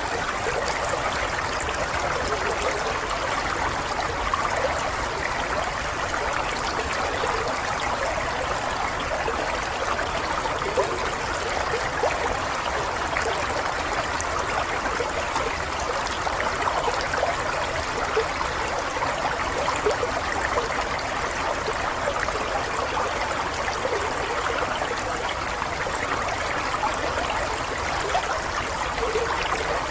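Flowing water, a steady stream babbling and trickling over stones.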